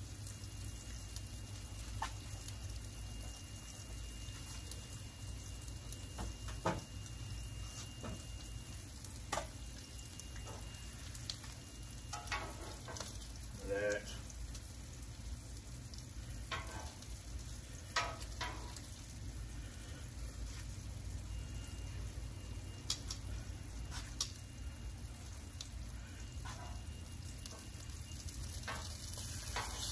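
Bacon and sausage sizzling steadily on a Blackstone flat-top griddle, with scattered short clicks and scrapes of metal tongs working the meat.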